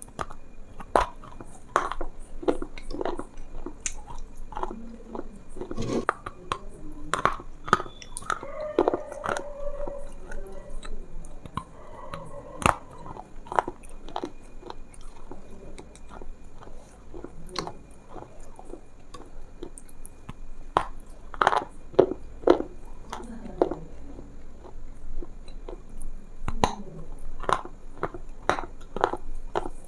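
Close-miked chewing and biting: irregular crunches and wet mouth clicks, ASMR style.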